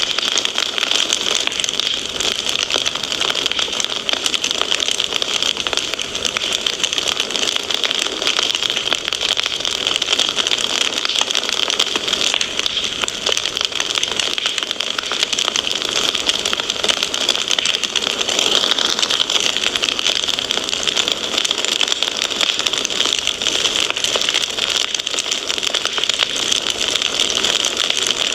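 Fireplace fire crackling: a dense, steady stream of small pops and crackles over a continuous hiss.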